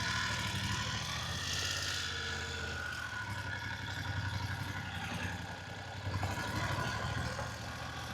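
Motorcycle engine running steadily at low speed, a little louder about six seconds in.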